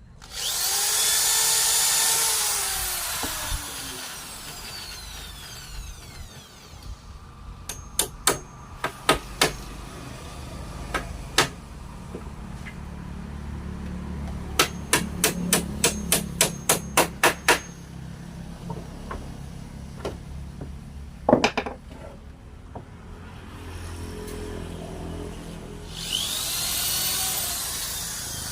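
Woodworking tools at work: a power tool's motor spins up and winds down with falling pitch at the start and again near the end. In between come hammer blows on wood, a few scattered strikes and then a quick run of about a dozen.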